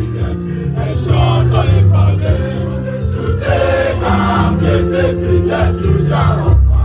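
Voices singing a school anthem over loud amplified backing music, with a deep bass line holding long notes that shift from chord to chord.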